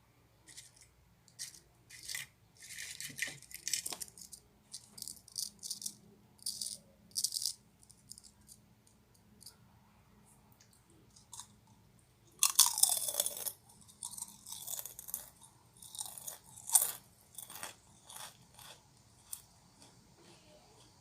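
Crinkling, rattling and crackling of a Kkobuk Chip snack bag and its layered corn chips being handled, in irregular short bursts with a louder, longer one about halfway through.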